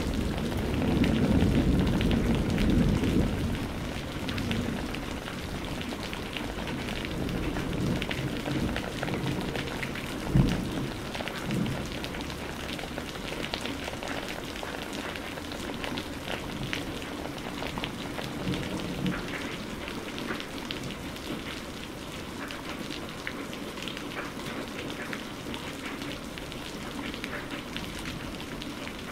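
Steady heavy rain hissing, with many individual drops ticking. A low thunder rumble fades away over the first few seconds. Two short dull thuds come about ten and eleven and a half seconds in.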